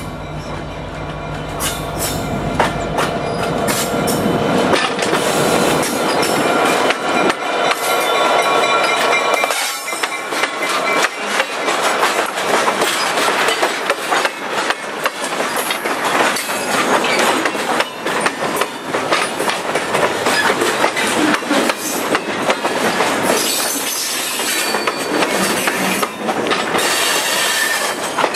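A freight train passing close by. Its diesel locomotive runs past in the first few seconds, then tank cars and covered hoppers roll by with a steady clatter of wheels over the rail joints and some high wheel squeal toward the end.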